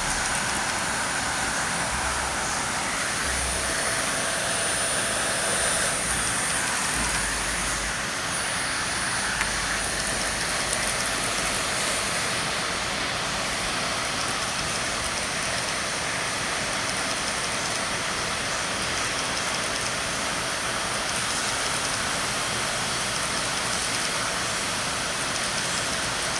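Hot-air heat gun running with a steady blowing hiss, as used to weld vinyl trailer-curtain material.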